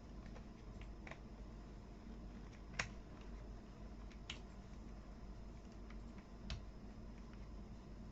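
Plastic toy building pieces clicking together: four light, sharp clicks spread over several seconds, the loudest about three seconds in.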